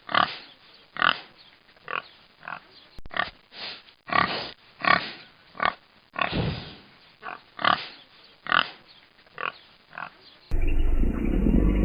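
An animal calling in a quick series of short, sharp cries, about one or two a second. Near the end it cuts to a steady low rumble.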